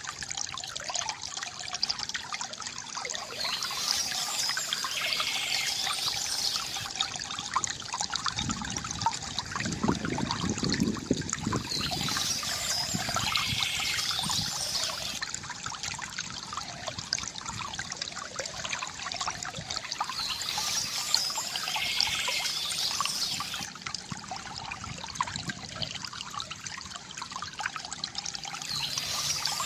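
Water trickling and pouring steadily from a bamboo fountain. A brighter, splashier passage comes back about every eight seconds, and there is a lower gurgle about nine to twelve seconds in.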